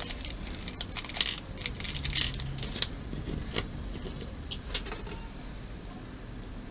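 Scattered light clicks and short rattles of small model parts and screws being handled during assembly, mostly in the first few seconds.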